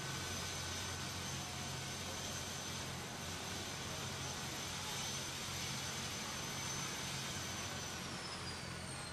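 Helicopter turbine engine running: a steady rush with a high whine that starts falling in pitch near the end.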